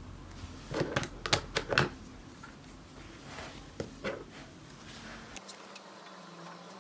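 Several quick knocks and clicks of small objects being handled, a cluster of about five about a second in and two more near the middle, over quiet room tone.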